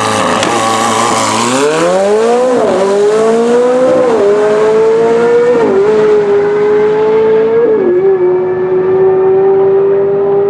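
A high-powered car launching down a drag strip at full throttle: the engine note rises hard and drops at four quick upshifts, then holds steady as the car pulls away and its sound grows duller.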